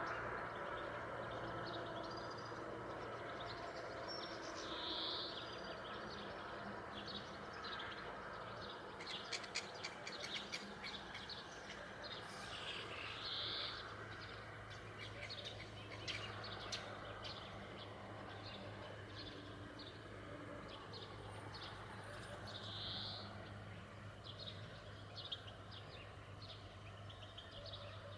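Wild birds chirping and calling, with one call repeating about every nine seconds, over a steady low hum. A short run of sharp clicks comes about nine to eleven seconds in.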